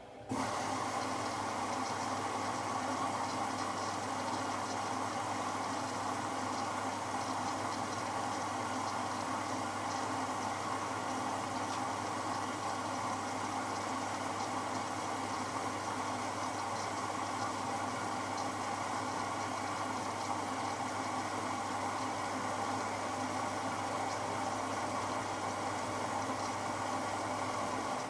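AEG Lavamat L74810 washing machine running water through it: a steady rushing of water over a low mains hum, starting abruptly and cutting off after about 28 seconds.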